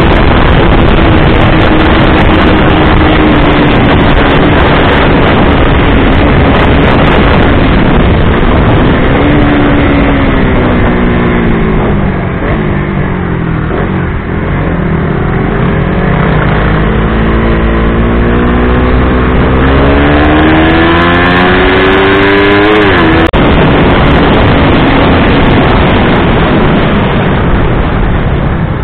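A 150 cc underbone motorcycle engine running at full speed under heavy wind noise on the bike's camera microphone. The engine's pitch sags, then climbs steadily for several seconds before breaking off abruptly, after which it holds a steady pitch.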